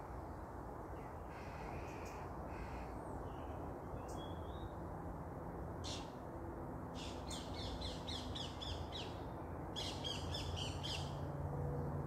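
Birds calling above trees, with two runs of rapid, harsh, repeated calls in the second half, over a steady low rumble.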